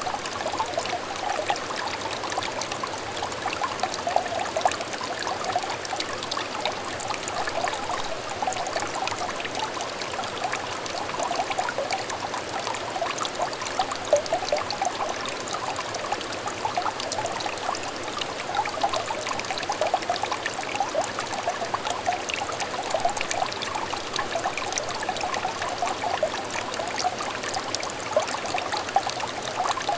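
A small clear stream trickling and babbling steadily, with many quick little bubbling notes over a continuous wash of running water.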